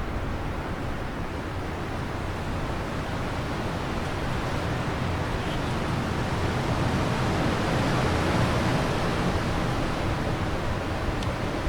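Wind blowing steadily, a rushing noise that slowly builds to a stronger gust about two-thirds of the way through, then eases a little.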